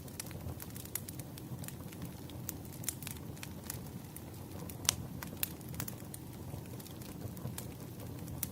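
Crackling wood fire: a steady low rumble of flames with irregular sharp pops and snaps, the loudest pop about five seconds in.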